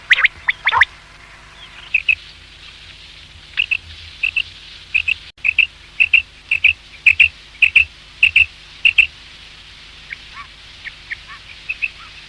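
Common quail calling: a few loud, harsh calls in the first second, then a run of short high notes, mostly in pairs, repeated every half second or so, growing fainter near the end.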